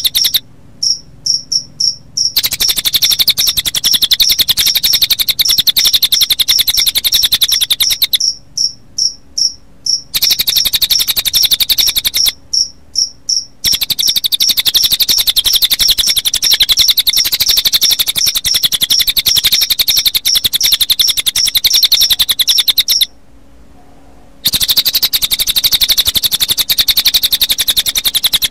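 Mixed recording of cililin bird calls and crickets: a dense, fast high-pitched trill with a steady series of sharp high notes, about three to four a second, running through it. The trill drops out briefly four times, leaving only the sharp notes, and once near the end everything stops for about a second.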